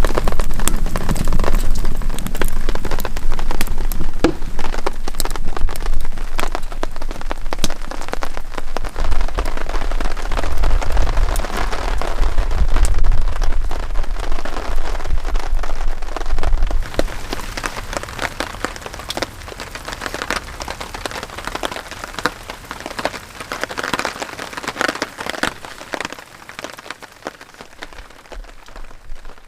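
Heavy rain falling, a dense patter of separate drops hitting a surface, over a low rumble. About two-thirds of the way through the rumble stops and the rain grows quieter, fading toward the end.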